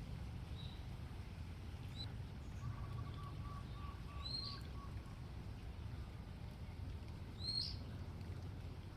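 A small bird calling with a few short, high chirps spread out, the loudest two near the middle and near the end, with a faint run of lower repeated notes in between, over a steady low rumble.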